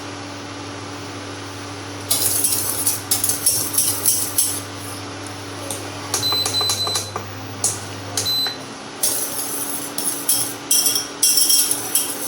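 Scattered kitchen clinks and rattles over a steady low hum that cuts off about eight seconds in, with a few short high beeps shortly before and as the hum stops.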